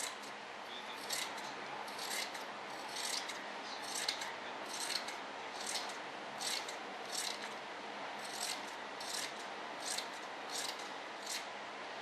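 Scissors snipping through fiberglass cloth, trimming it in a steady run of short cuts, about one or two a second.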